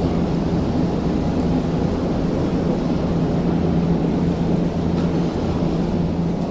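Odakyu electric commuter train pulling out of a station platform, with a steady rumble of motors and wheels and a low hum through most of it.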